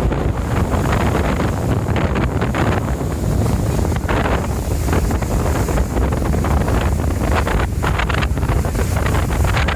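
Wind buffeting the microphone over the steady rumble of a sightseeing boat under way, with water rushing past the hull.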